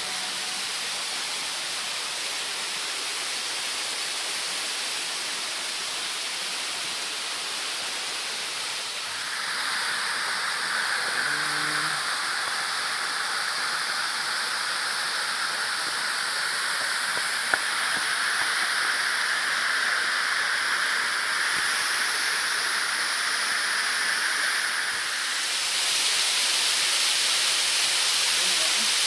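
Waterfall: a steady rush of falling water whose tone brightens about a third of the way in and shifts again near the end. A single sharp click comes about halfway through.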